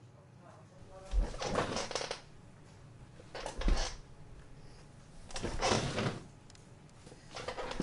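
Office ambience: four short bursts of clattering and rustling, about two seconds apart, over a low steady background hum.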